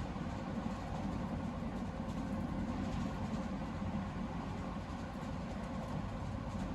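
Steady low rumble of a Class 220 Voyager diesel-electric train running along the line, heard from inside the passenger carriage.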